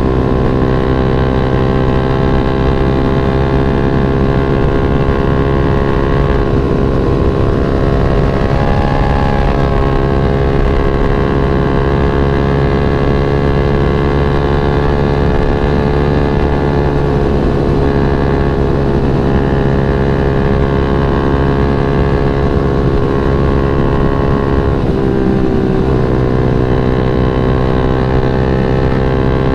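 Yamaha MX King 150's single-cylinder four-stroke engine running steadily while riding, the engine note drifting slightly up and down. About 25 seconds in the revs drop briefly, then climb again.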